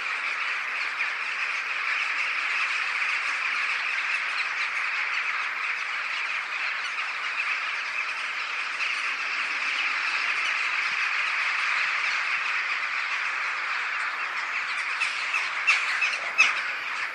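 A large flock of birds calling all at once in a dense, unbroken chatter, with a few sharp knocks near the end.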